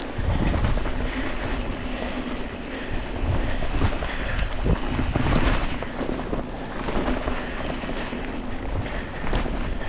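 Wind buffeting the camera microphone over the rolling noise of a mountain bike being ridden on a dirt trail, with a steady low rumble and a few brief knocks and rattles.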